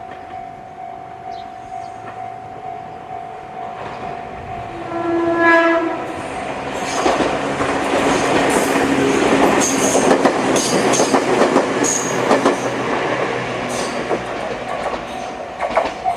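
Level-crossing alarm with the JR Tohoku-type electronic bell sound ringing. About five seconds in, a Joshin Electric Railway 500-series train gives a one-second horn blast, then passes over the crossing for about nine seconds, its wheels clattering over the rail joints with a few short high squeals.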